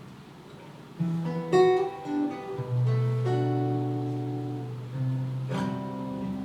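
Acoustic guitar playing a slow song intro: a few chords strummed one at a time and left ringing.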